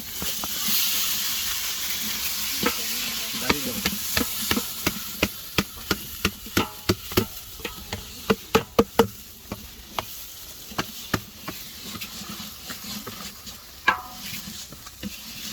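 Chicken tehri frying in a pot while a spoon stirs it, knocking and scraping against the pot in a quick run of clicks, two to three a second, for several seconds. A frying sizzle is louder in the first couple of seconds.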